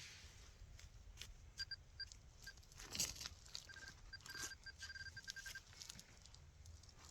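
Handheld metal-detecting pinpointer giving short high beeps, scattered at first, then a quicker run of beeps in the middle as it closes on a metal target in the dug soil. Soft scraping and crunching of dirt runs under the beeps.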